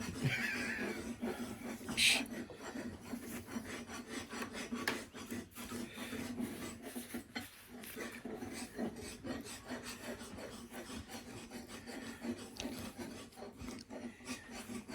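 Scratchy rubbing and scraping, stroke after stroke, as the surfaces of a rubber carburettor mount are scrubbed clean with acetone before gluing. A sharper tap comes about two seconds in.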